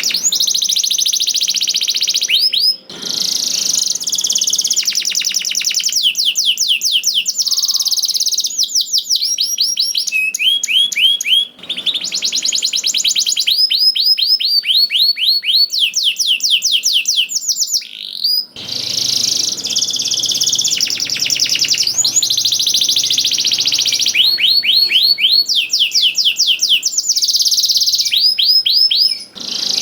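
Domestic canary singing a long, unbroken song of fast trills: runs of rapid repeated notes that change speed and pitch from phrase to phrase, with a few brief pauses.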